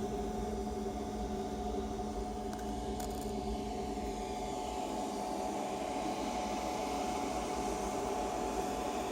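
A steady mechanical hum with a whirring hiss, holding a few even tones without change.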